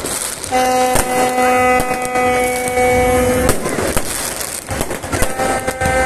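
Fireworks crackling and bursting in quick succession. Over them a horn sounds one steady note for about three seconds, and again briefly near the end.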